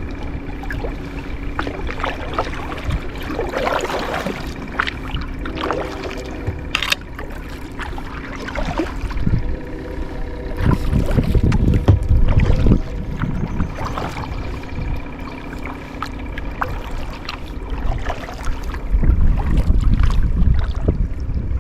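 Kayak paddle dipping into the water, with irregular splashes and dripping, over a low steady rumble of wind on the microphone.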